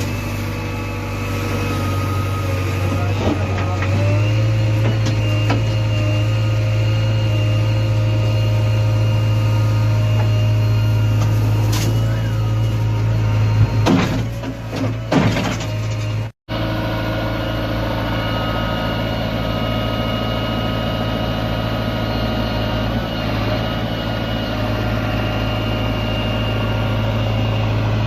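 Heavy diesel engine running steadily with a low drone, a few knocks and clanks about halfway through, and a momentary cut-out in the sound just after.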